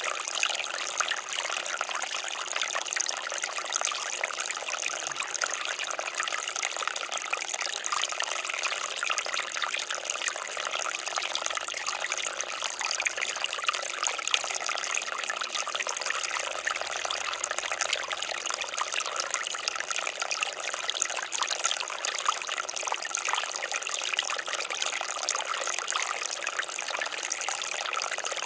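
Water fountain splashing and trickling steadily, a continuous spatter of falling water.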